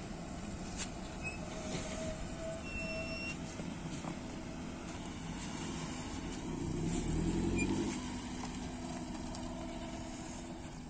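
Small Maruti Suzuki hatchback's engine running as the car drives slowly past. Its note rises and gets louder as the car comes close, about six to eight seconds in, then eases off.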